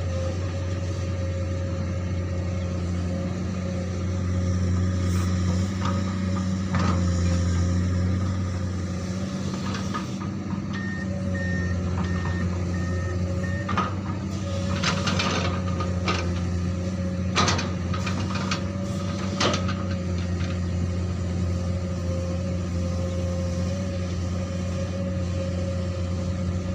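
Komatsu PC200 hydraulic excavator's diesel engine running steadily. About eleven seconds in there is a short run of high beeps, followed over the next several seconds by a cluster of sharp knocks and clanks from the working machine.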